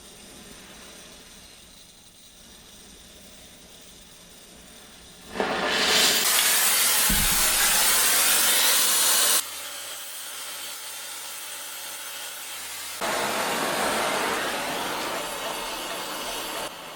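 Gas blowtorch flame hissing steadily as it heats a seized exhaust manifold stud to loosen it. The hiss is faint at first, comes up loud about five seconds in, drops abruptly a little past nine seconds, and swells loud again around thirteen seconds.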